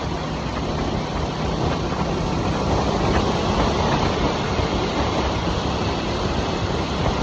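2023 Harley-Davidson Nightster's Revolution Max 975T V-twin running at a steady cruise, with a dense rush of wind and road noise over it.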